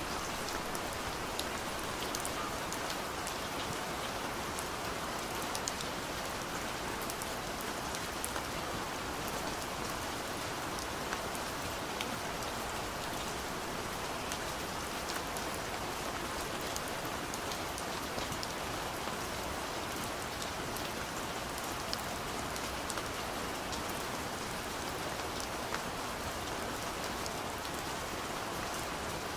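Steady light rain falling on a window, an even hiss with many small drops tapping on the glass.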